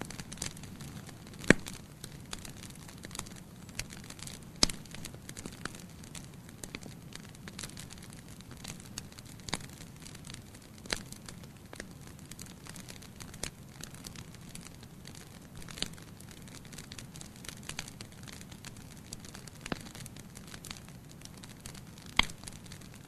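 Fireplace fire crackling: irregular sharp pops and snaps over a low steady rumble. The loudest pops come about a second and a half in, near five seconds, and near the end.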